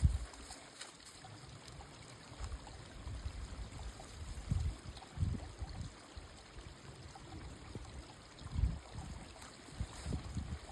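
A small creek trickling and pouring through a breach in a stick dam as the dam gives way. Several short low rumbles, the loudest about halfway and near the end, sound over the water.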